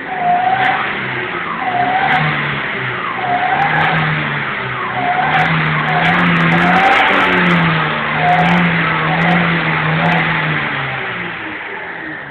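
Chevrolet Celta's four-cylinder engine being revved over and over, its pitch rising and falling about once a second, then settling near the end. The engine runs rough and noisy, which the owner takes as a sign it is limping now and will seize later.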